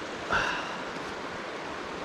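Mountain river rushing over boulders in a steady wash of water noise. A short, sharp, pitched sound cuts in once, about a third of a second in.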